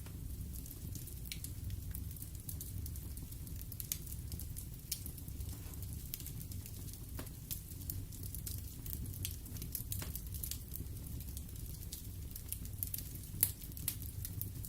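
Wood fire burning in a fireplace: a steady low rumble with scattered crackles and pops of the burning logs, one louder pop near the end.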